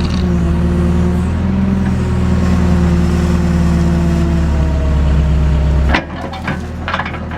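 JCB backhoe's diesel engine running steadily, then dropping sharply in level about six seconds in, with a few short knocks near the end.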